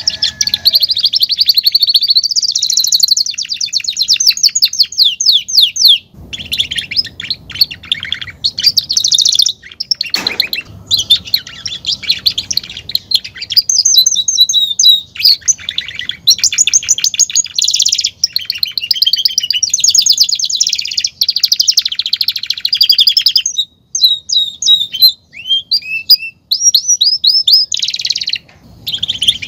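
Domestic canary singing a long, loud song of rapid rolling trills and chirps, broken by a few short pauses.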